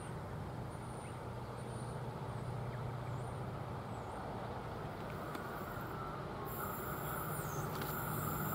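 Steady low rumble of a diesel freight train running by, with a faint engine hum under it and a few faint high chirps.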